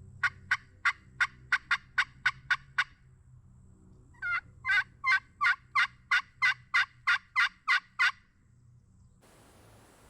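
Two long series of turkey yelps, about three evenly spaced notes a second. The second series is longer and louder than the first, with a pause of about a second and a half between them.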